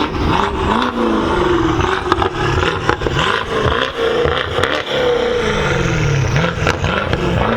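Car engine revving, its pitch rising and falling several times, with scattered clicks.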